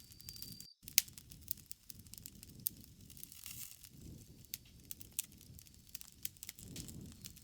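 Campfire crackling: burning wood gives off irregular sharp snaps and pops over a soft low rumble of flame. The sound cuts out for an instant just under a second in.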